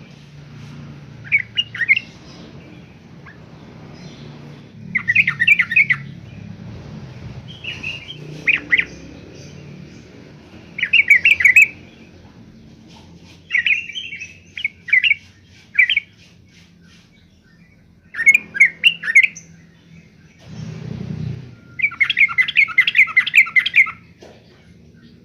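Yellow-vented bulbul singing: short, quick bubbly chattering phrases repeated every few seconds, with a longer run of notes near the end.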